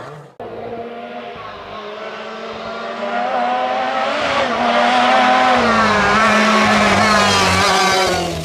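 Historic rally car engine at speed, growing louder as it approaches and passes close, its revs rising and dipping as the driver works the throttle and gears. The sound starts abruptly about half a second in.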